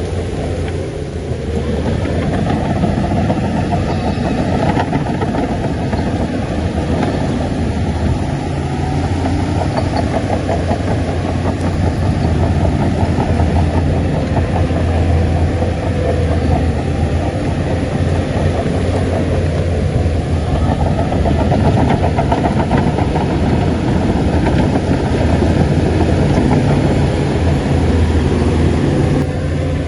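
Shantui bulldozer's diesel engine running steadily and loudly, a continuous low engine hum that swells slightly about a second in and holds.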